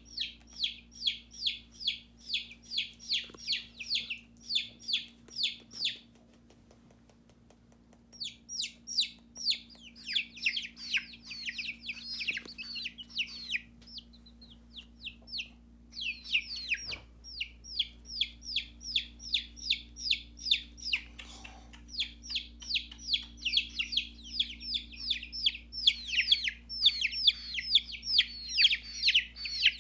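Chicks peeping over and over in fast runs of short, high, falling calls, about three to four a second. They stop for about two seconds a few seconds in, then start again and grow louder toward the end.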